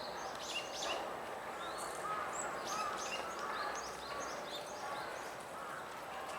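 Several wild birds calling: many short, high chirps overlapping with a repeated lower, arching note, over steady outdoor background noise.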